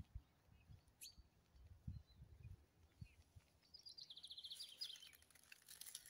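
Faint songbird calls: a short high falling note about a second in, then a fast trill of rapidly repeated high notes near the end.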